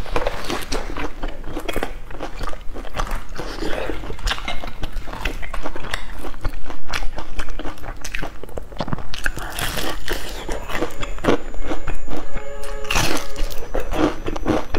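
Crunching and chewing of crisp, crumb-coated fried patties: dense, irregular crackles of bites and chewing throughout.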